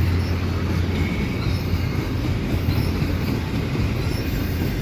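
Freight train cars rolling past on the rails: a steady rumble of wheels with faint wheel squeal. A low drone fades out about a second in.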